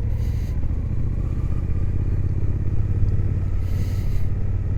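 Suzuki GSX-8S's parallel-twin engine running steadily while riding, heard through a microphone inside the rider's helmet, with two brief hisses about half a second and four seconds in.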